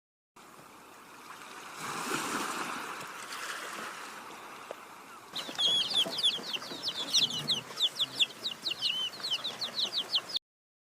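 A soft rushing background, then about five seconds in a bird starts chirping: a quick run of short, high, falling chirps, several a second.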